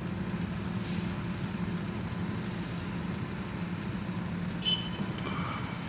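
A motor vehicle engine running steadily at idle, a low even hum.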